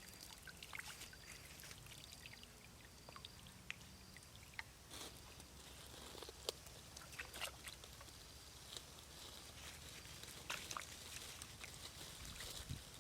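Water trickling and pouring faintly, with scattered small splashes and clicks.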